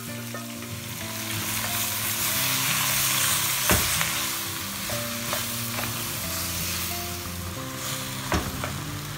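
Boiled sweet potato chunks sizzling in hot coconut oil in a clay pot as they are stirred and mashed with a wooden spatula, the sizzle loudest a few seconds in, with a couple of sharp knocks against the pot. Soft background music plays underneath.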